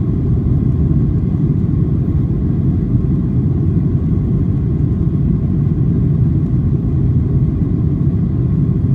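Steady low rumble inside a Boeing 737-800's cabin: the CFM56 jet engines and airflow, with no change in level or pitch.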